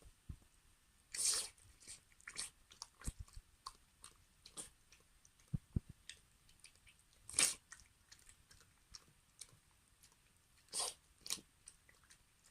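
A Maltese dog chewing and crunching food, with irregular crunches and clicks of the teeth and short pauses between bites. The loudest crunches come about a second in, about seven seconds in and near the end.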